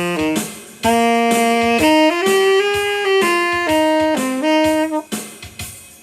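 Saxophone-toned lead playing a melodic phrase of separate held notes over drums, which stops about five seconds in, leaving a few last drum hits that fade out.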